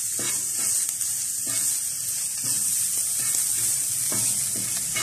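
Chopped onion, cabbage and chicken sizzling in hot oil on a flat tawa griddle, stirred with a wooden spatula: a steady high sizzle with a few soft spatula scrapes.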